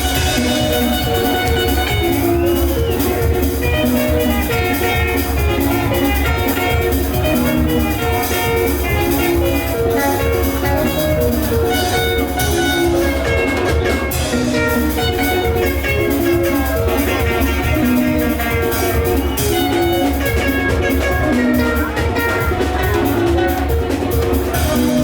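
Live band music led by plucked guitar lines over a drum kit, with a steady beat and no singing heard.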